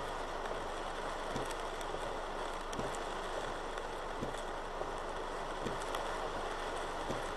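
Heavy rain falling steadily, with scattered sharper drops striking close by.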